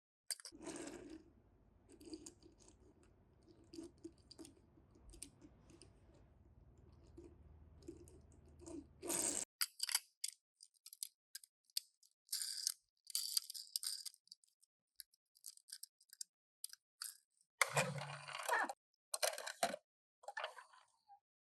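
Crinkling and rustling of toy car packaging, with many small clicks and taps, as Tomica die-cast cars are unboxed and handled. A faint hum sits underneath for the first half and then stops.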